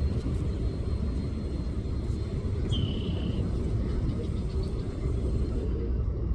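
Steady low rumble of wind on the microphone outdoors, with one short high whistle, like a bird call, about three seconds in.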